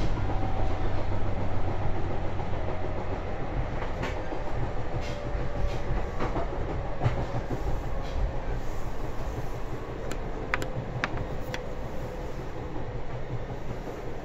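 JR Kyushu 813 series electric train running, heard from inside the passenger car: a steady rumble of wheels on track with a few sharp clicks scattered through the middle, gradually getting quieter.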